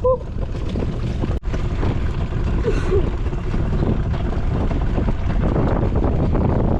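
Strong wind buffeting the microphone on an open boat, a loud, constantly fluctuating low rumble.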